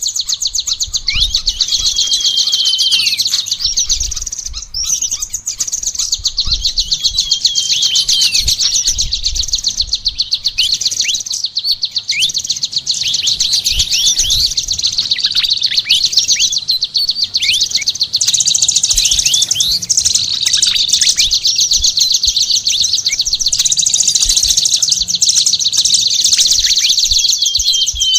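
Songbird singing a dense, unbroken, rapid high-pitched chatter, with many quick downward-sweeping whistled notes woven through it. A low, faint thumping sits underneath.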